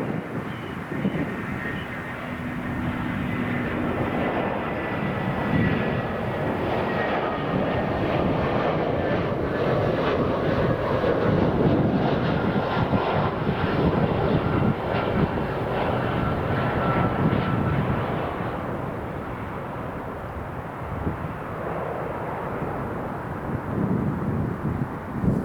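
Twin-engine Boeing 767-300 jet airliner's engines going by. The sound swells to its loudest midway and then fades, with a thin engine whine slowly falling in pitch.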